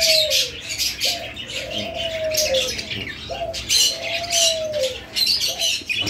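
Many cage birds chirping, with a lower, drawn-out call repeated three times, each note gliding slightly down, and a few shorter notes between them.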